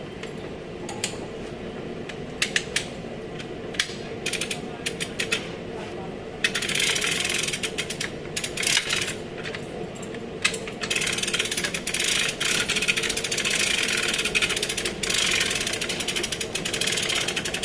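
Hand ratchet wrench clicking as bolts are turned: a few separate clicks at first, then two long runs of fast ratcheting starting about six seconds in.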